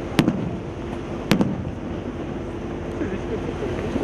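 Aerial fireworks shells bursting: two sharp bangs about a second apart, each with a short low rumble after it, over a steady hum.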